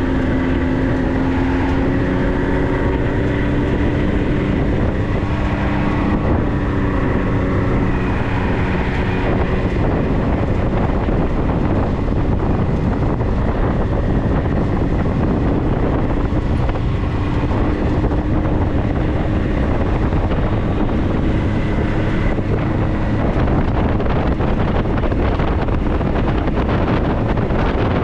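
A 4x4's engine running while driving along a trail, its pitch wavering slightly, with steady wind noise on the microphone.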